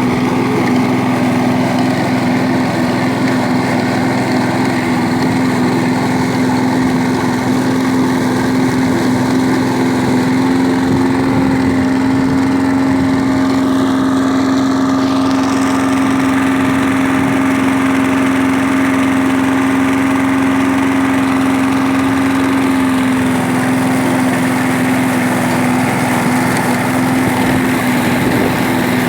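Small petrol engine of a grass-clearing machine running steadily at high speed, holding one even pitch.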